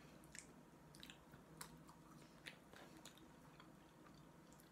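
Faint chewing with small irregular mouth clicks and crunches.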